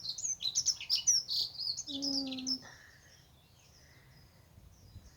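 Garden songbird singing, a rapid run of high chirps for the first two and a half seconds, then fainter, sparser calls. A short, low held voice-like tone sounds about two seconds in.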